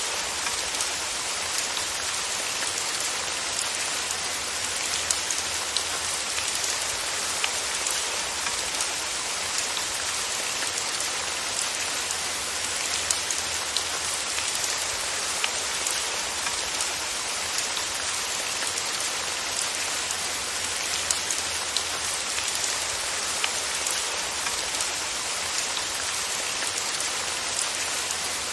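Steady rain falling, an even hiss scattered with many small sharp drop ticks.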